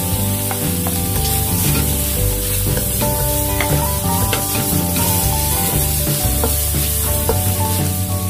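Oil sizzling in a wok as fish cake strips, garlic and ginger are stir-fried, with a wooden spatula scraping and clicking against the pan. Background music with held notes plays along.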